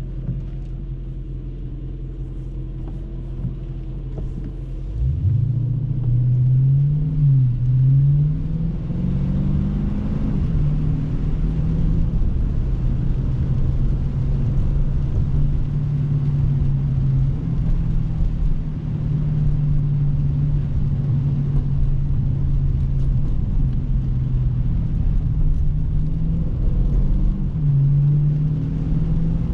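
Dodge Scat Pack's 392 (6.4-litre) Hemi V8 running low and steady, then accelerating about five seconds in: the engine note rises and drops back a few times as it goes up through the gears, then settles into a steady cruise with small changes in pitch.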